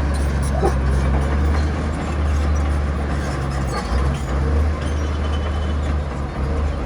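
Heavy diesel engine of earthmoving machinery running steadily with a deep low drone.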